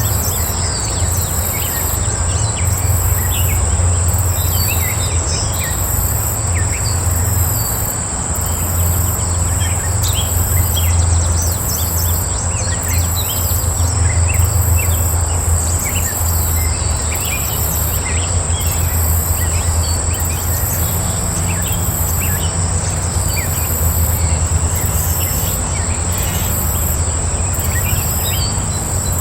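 Outdoor insect and bird chorus: a steady high insect buzz with a regular pulsing trill above it, scattered short bird chirps throughout, and a steady low rumble underneath.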